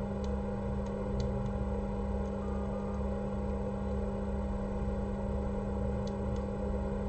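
Steady electrical hum with a low pulsing underneath, about twice a second, and a few faint clicks.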